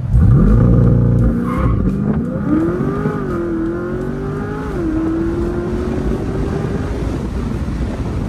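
Chevrolet C8 Corvette's 6.2-litre LT2 V8 at a hard launch for a 0-60 run. It revs up sharply and pulls at full throttle, heard from inside the open-top cabin. The pitch dips and climbs again twice as the transmission shifts up.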